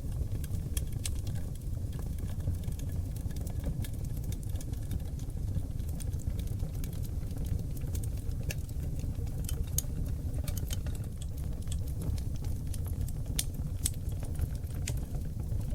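Oak log fire burning in a fireplace: a steady low rumble of flames with scattered sharp crackles and pops.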